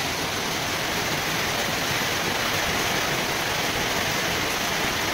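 Monsoon rain falling steadily: an even, unbroken hiss of a downpour.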